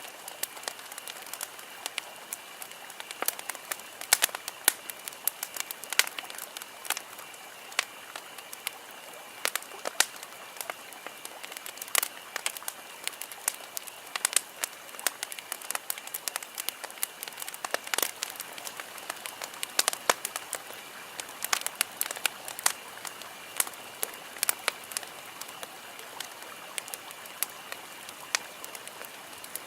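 Wood campfire crackling: irregular sharp pops and snaps, several a second, over a steady soft hiss of burning.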